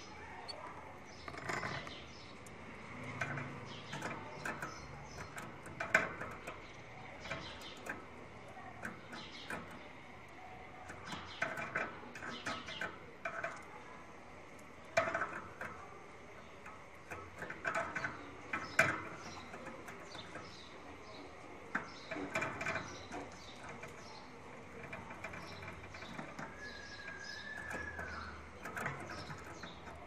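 Caged birds chirping in short, irregular calls, mixed with scattered clicks and rustles, and one longer wavering call near the end.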